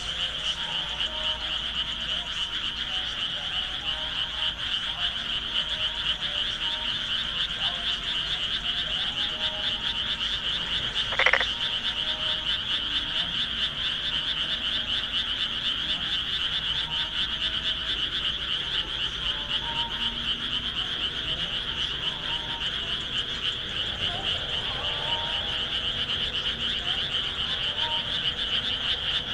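A dense, continuous chorus of frogs calling from rice paddies, a high rapid trilling with scattered lower croaks beneath it. About eleven seconds in there is one brief, louder call.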